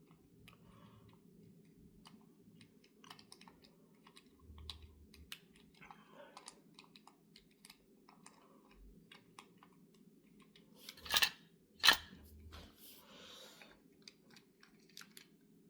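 Small irregular clicks and taps of hand tools and parts on a HEI distributor being taken apart, with two louder sharp clacks about eleven and twelve seconds in, over a low steady hum.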